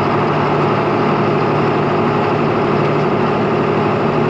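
Diesel engine of a John Deere 4755 tractor running steadily under the cab, a constant loud drone.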